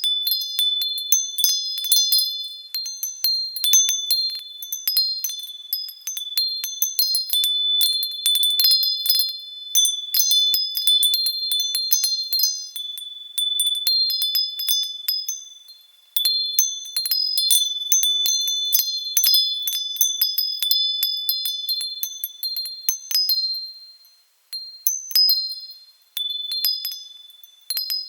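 Metal wind chimes tinkling gently, with high clear tones struck at random and overlapping as they ring on. The ringing dies away nearly to nothing twice, about halfway through and near the end, before the chimes start again.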